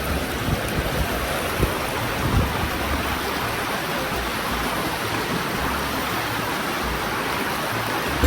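Waterfall water rushing: a steady, even noise with no break.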